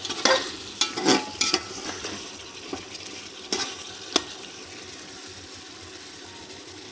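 Chicken masala with green chillies sizzling as it fries in a metal pot. A spatula stirs, scraping and knocking against the pot several times during the first four seconds, then only the steady sizzle remains.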